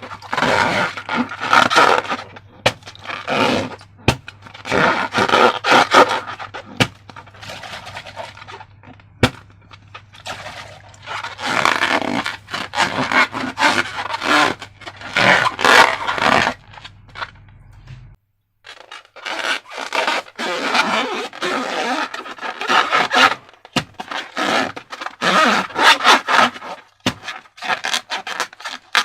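Irregular bursts of scraping and rubbing as transparent balloons and slime are handled, with short pauses between bursts.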